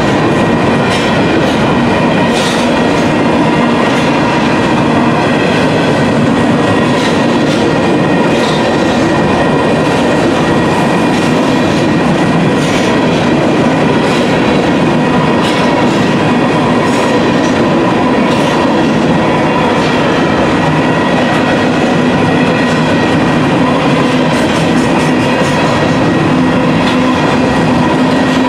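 Covered hopper cars of a Union Pacific freight train rolling past close by: a loud, steady rumble of steel wheels on rail with irregular clicks as the wheels cross rail joints, and a steady high ring running through it.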